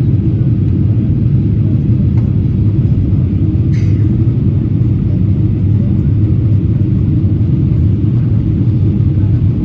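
Steady low rumble of a Boeing 777-300ER airliner in flight or on the ground, its engines and airflow heard as cabin noise. A brief higher sound cuts in about four seconds in.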